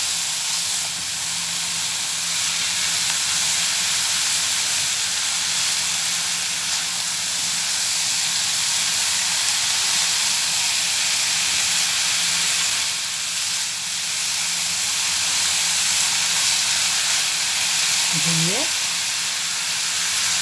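Sliced chicken, onion and grated potato sizzling steadily in hot ghee in a frying pan as they are stirred with a silicone spatula.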